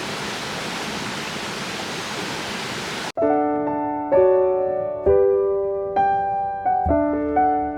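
Steady rush of a mountain stream, an even hiss, cut off abruptly about three seconds in; piano music then plays slow chords.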